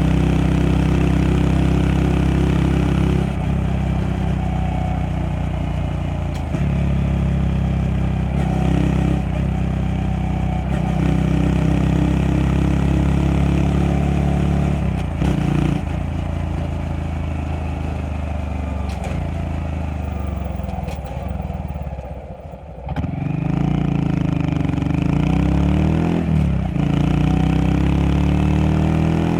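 Honda Monkey 125's single-cylinder four-stroke engine running under way, its revs stepping up and down with gear changes. About three-quarters of the way through it eases off briefly, then pulls back up through the gears.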